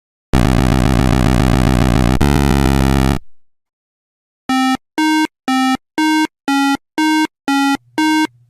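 Synthesized electronic sound effects: a harsh, dense buzzing tone for about three seconds that shifts pitch partway through, then after a pause a run of nine short, evenly spaced beeps, about two and a half a second.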